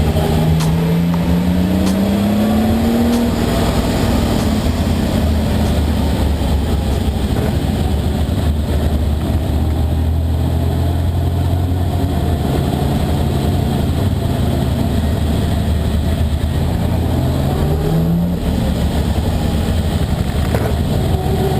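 Ferrari 375 MM's V12 engine under way, its pitch climbing over the first three seconds as it revs up, then running at a steady low drone, and rising again twice near the end.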